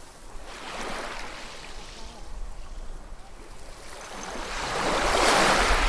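Ocean waves washing on a shore: a small wave about a second in, then a bigger wave building from about four seconds and breaking loudly near the end.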